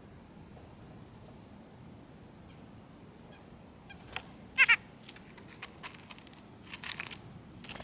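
Wild birds calling: a short call, then a loud two-note call a little past halfway, followed by a few short chips and a scratchier call near the end.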